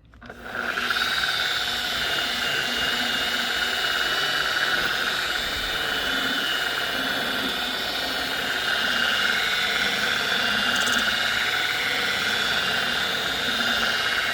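Electric buffer starting up about half a second in and then running steadily with a whine, its pad working the plastic headlight lens.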